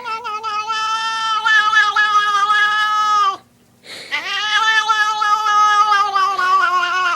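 A cat yowling: two long, drawn-out calls at a steady pitch, separated by a short break about halfway through.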